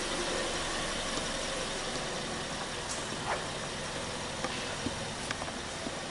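Mazda Verisa 4WD's four-cylinder petrol engine idling steadily, with a few faint clicks.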